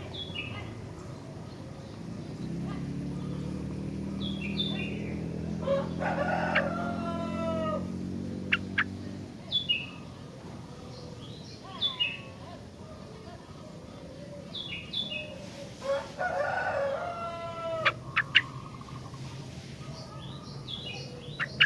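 Sooty-headed bulbul (kutilang) giving short, bright chirping phrases every few seconds, while a rooster crows twice, about six and sixteen seconds in. A low hum runs underneath for several seconds in the first half.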